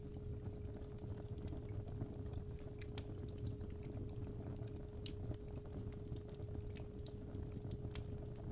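Fireplace fire crackling, with irregular sharp pops over a low steady rumble. A steady 417 Hz sine tone sounds alongside it.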